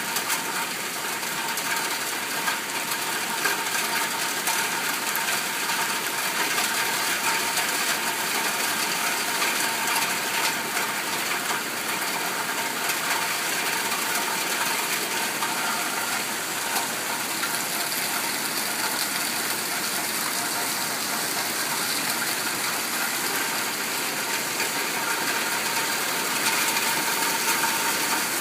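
Heavy rain falling steadily on a lake: a dense, even hiss of countless drops striking the surface.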